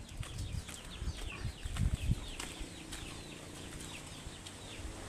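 Birds chirping, many short high chirps falling in pitch in quick succession, over a low rumbling with a few soft knocks.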